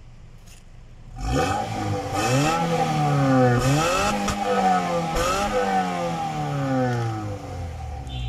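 Honda City's 1.3-litre petrol engine heard at the tailpipe, revved up about three times, each rise in pitch falling back, then easing back toward idle near the end. A steady high whine runs under the revs.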